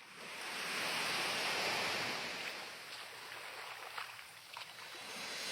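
Rushing noise of waves, swelling and easing, then building again near the end.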